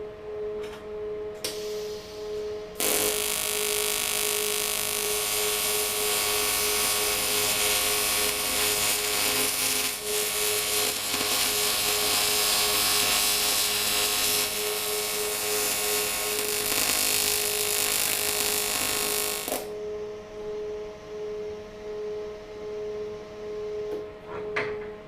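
AC TIG welding arc on cast aluminium: a loud, steady buzzing hiss that starts about three seconds in and cuts off about seventeen seconds later. A steady hum runs underneath and is heard on its own before and after the arc.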